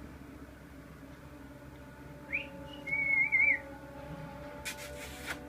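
Parrot whistling: a short rising chirp, then a wavering whistle lasting under a second, followed a little later by a brief rustle.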